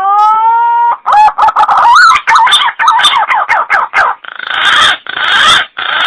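Green pigeon (punai) calling, recorded as a hunting lure: a long rising whistle, then a quick run of wavering whistled notes, ending in three harsh, raspy bursts.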